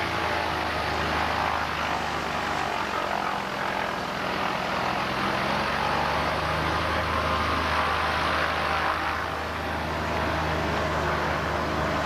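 Cessna 180's six-cylinder Continental O-470 engine and propeller running in flight, a steady drone that dips briefly twice.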